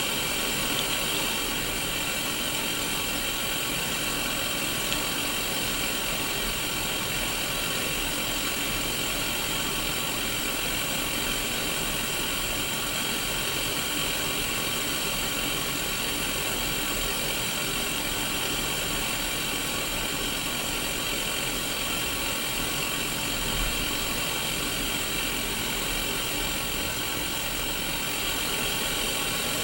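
Untuned analogue TV static from a Sony Mega Watchman mini CRT television: a steady, unbroken hiss, strongest in the upper middle of the range.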